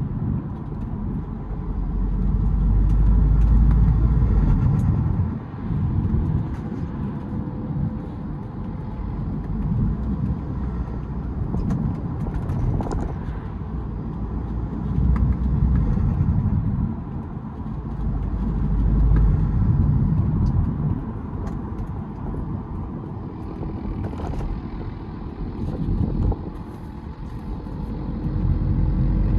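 BMW E92 320d's four-cylinder turbodiesel, breathing through a K&N cold air intake, driving on the road. Engine and intake noise swell and ease several times as it accelerates and backs off, over a steady road rumble.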